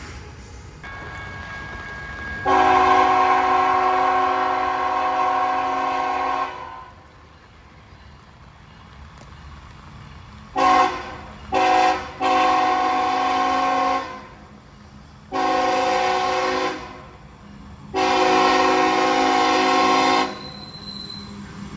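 CSX freight locomotive's multi-chime air horn sounding a series of blasts for a grade crossing: a long blast, two short toots, then three more long blasts, each a chord of several notes. The train's low rumble runs underneath.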